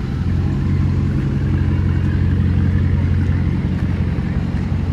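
A car engine idling with a steady, loud, low rumble.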